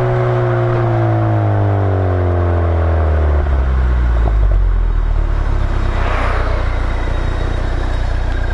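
Exhaust of a Mk3 Ford Focus RS's 2.3-litre turbocharged four-cylinder, heard from a microphone on the back of the car: the engine note falls steadily as revs drop over the first three seconds or so, then settles into a low steady drone.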